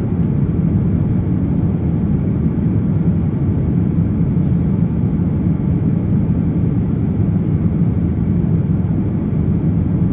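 Steady low roar of a passenger airplane's cabin in flight: engine and airflow noise heard from inside the plane.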